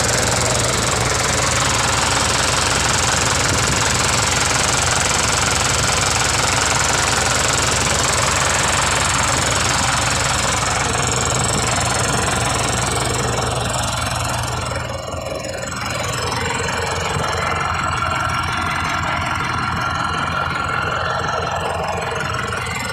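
Mitsubishi 4M51 four-cylinder diesel engine running with a steady diesel knock. About fifteen seconds in the sound dips briefly, then the engine runs on, with a thin steady whine near the end.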